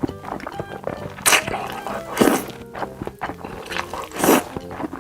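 A person eating close to the microphone, with three loud bite or chewing noises at uneven intervals over soft background music.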